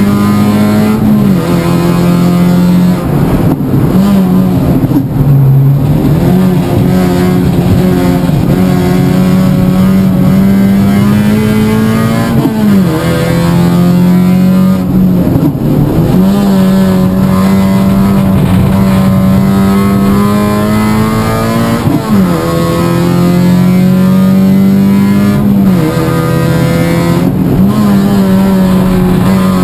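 Toyota Yaris Cup race car's four-cylinder engine heard from inside the cabin, running hard on track. Its pitch climbs slowly through long pulls in gear, then drops sharply and rises again about six times as the driver lifts and changes gear for the corners.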